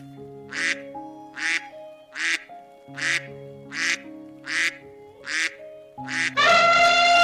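A duck quacking about eight times at an even pace, over background music with held notes. Near the end a much louder, long animal call with many harmonics begins.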